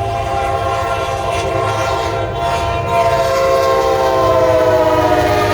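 Norfolk Southern locomotive's air horn sounding one long, loud chord of several notes as the train approaches fast, with a low rumble underneath; the chord drops in pitch near the end as the locomotive passes.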